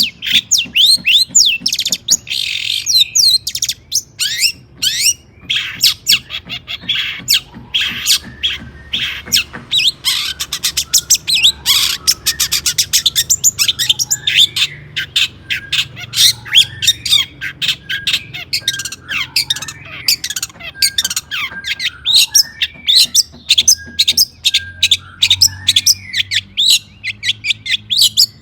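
Long-tailed shrike (cendet) singing an unbroken, fast, harsh chattering song of rapid sweeping notes and squawks.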